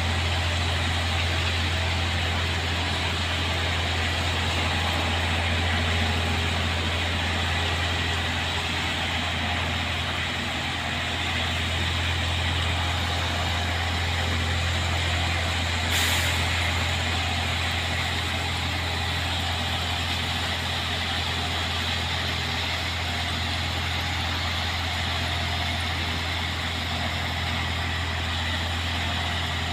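Heavy diesel engine of a rail vehicle idling steadily with a deep low hum, and one short sharp click about sixteen seconds in.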